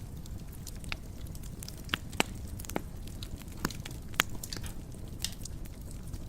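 Wood fire burning in a fireplace: a steady low rumble of flame with irregular sharp crackles and pops, the loudest a little after two seconds in and again about four seconds in.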